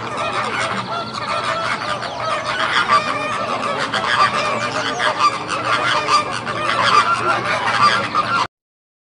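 Many fowl calling at once: a dense, unbroken chorus of overlapping honking calls, which stops abruptly near the end.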